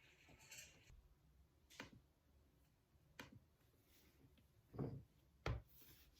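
Near-silent room with four scattered soft clicks and knocks, the last two, about five seconds in, the loudest.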